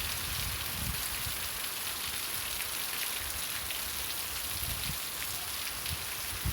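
Heavy rain falling steadily: an even hiss with many fine drop ticks.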